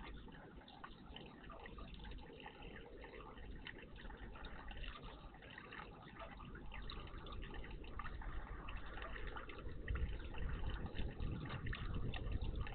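Water splashing and dripping in a garden bird bath, a steady trickle broken by many small quick splashes. A low rumble grows louder near the end.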